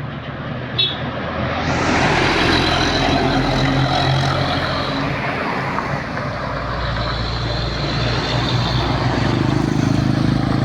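Heavy truck engine running, growing louder about two seconds in and then holding steady.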